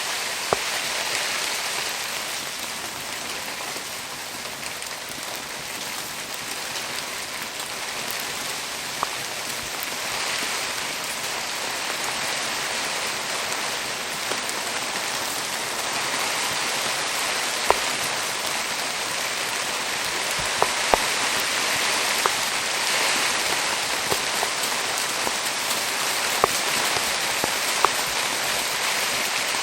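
Steady rain falling, an even hiss, with about a dozen sharp single pops scattered through it, most of them in the second half.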